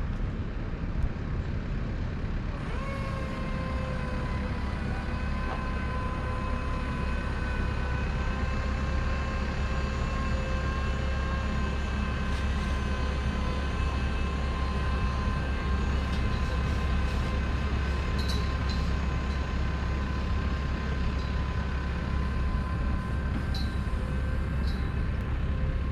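Steady low rumble of a running vehicle. About three seconds in, a steady whine of several pitches joins it, rising slightly at the start and then holding.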